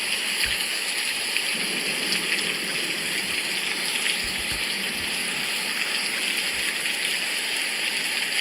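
Steady rain falling: a constant hiss with a fine patter of drops.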